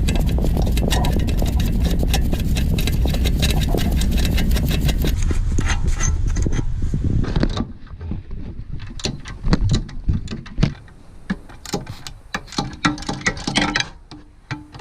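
Power tool running with a fast rattle, loosening the rear brake caliper bolts, for about seven and a half seconds, then stopping. After it, a string of irregular metal clicks and clinks as the tool and parts are handled.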